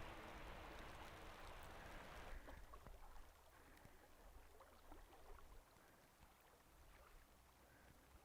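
Near silence: a faint steady hiss that cuts off about two and a half seconds in, leaving an even quieter background with a few faint ticks.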